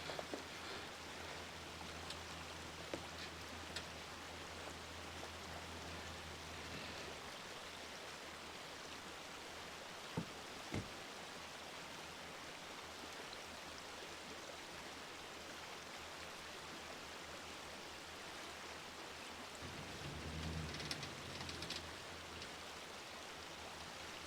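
Steady rushing outdoor noise, with a low hum that fades out about a quarter of the way in and comes back briefly near the end. Two sharp knocks come close together about ten seconds in.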